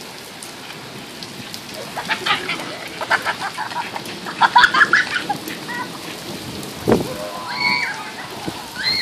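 Steady rain falling on a wet concrete driveway, with children shrieking in short high bursts in the middle. A sharp knock comes just before the seventh second, then a child's high, rising-and-falling scream about eight seconds in.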